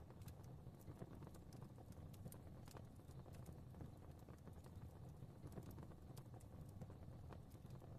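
Faint wood fire crackling in a fireplace: irregular soft pops and crackles over a low, steady rumble.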